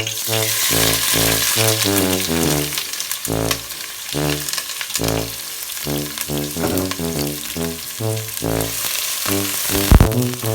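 Chopped onions sizzling as they fry in hot oil in a pan; the sizzle starts suddenly as they go in. Background music with brass plays throughout, and a sharp knock comes near the end.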